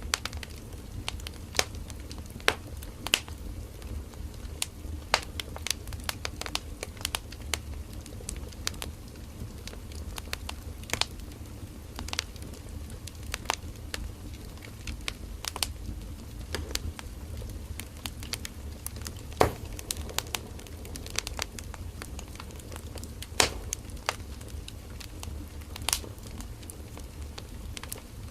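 Firewood burning in a campfire: irregular sharp crackles and pops over a steady low rumble of the flames.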